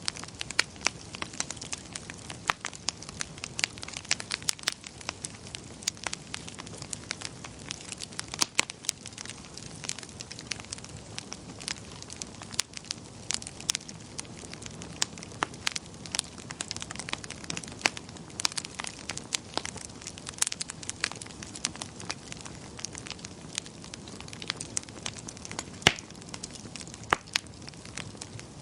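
Wood fire burning in a fireplace: a steady low hiss of the flames with frequent sharp, irregular crackles and pops, one louder pop near the end.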